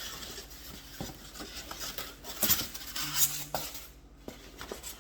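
Contents of a shipping package being handled: light rustling and clatter, with a few sharp knocks, busiest a little past the middle.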